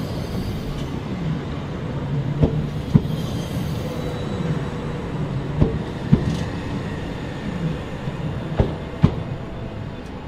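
A train running through the station over rail joints: a steady rumble with sharp wheel clacks in pairs about half a second apart, repeating about every three seconds as each car's bogies cross the joint.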